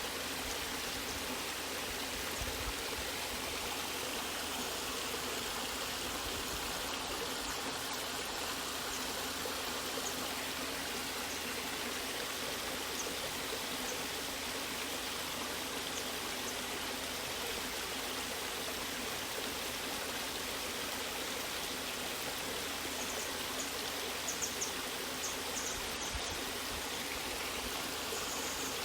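Natural waterfall rushing steadily, with a few faint splashes near the end.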